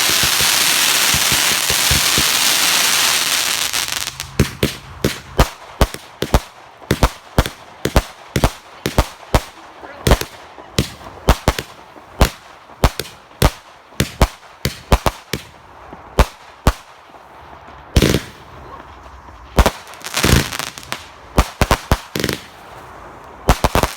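Fireworks going off: a few seconds of dense, continuous crackling, then a rapid string of sharp bangs at roughly two or three a second, with a few louder, longer bursts near the end.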